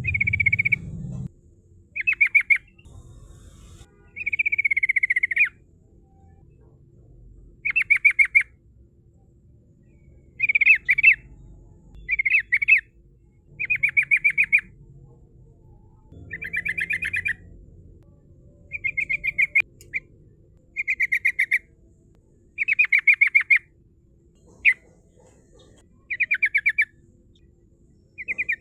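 Yellow-vented bulbul (trucukan) singing vigorously: about fourteen short, bubbling phrases of rapid repeated notes, each under two seconds long, with brief pauses between them.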